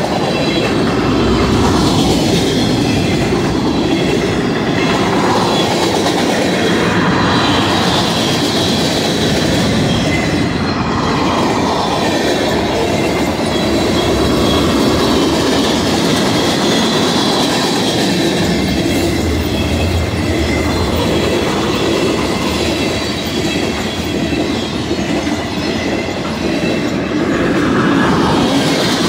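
Freight cars of a long BNSF manifest train rolling past: a steady rumble and clatter of steel wheels on the rails.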